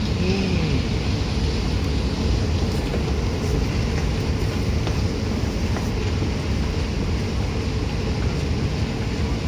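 Escalator running with a steady low mechanical rumble and a faint hum, with a few light clicks.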